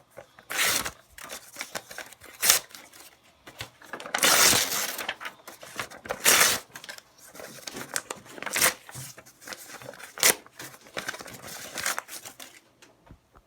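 A paper bill being torn up by hand: several short rips through the paper, one longer tear about four seconds in, with crinkling of the paper between.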